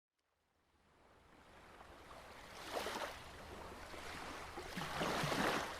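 Rushing water noise like waves washing in, fading up from silence about a second in and swelling twice, the second swell louder.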